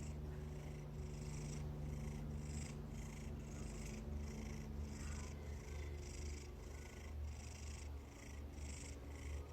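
Domestic cat purring steadily, in an even rhythm of about two pulses a second.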